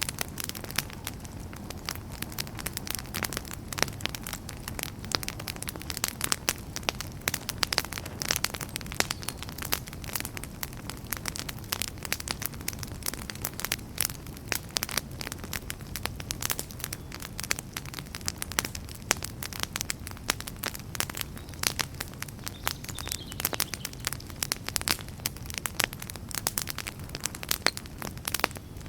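Wood campfire burning with steady, dense crackling and frequent sharp pops, over a low, even rumble of the flames.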